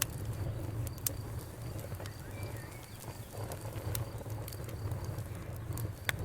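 Campfire crackling: irregular sharp pops and snaps over a low steady rumble. A brief faint chirp about two and a half seconds in.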